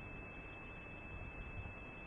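Steady wind noise blowing across an outdoor microphone, with a constant high-pitched tone running through it.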